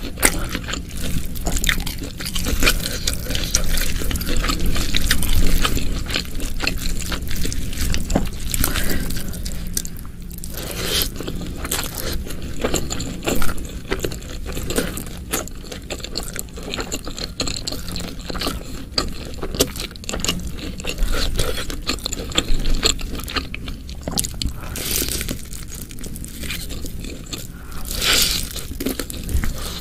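Close-miked eating: a person chewing and biting food, a dense irregular run of small clicks, crunches and mouth sounds.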